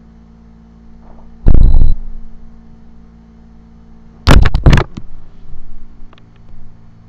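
A loud low thud about a second and a half in, then a quick cluster of three or four sharp knocks about four and a half seconds in, with a few fainter clicks after.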